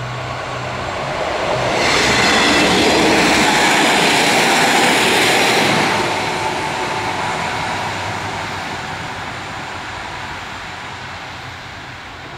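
A train passing over a level crossing: its rolling noise swells to its loudest about two seconds in, holds for about four seconds, then fades slowly away.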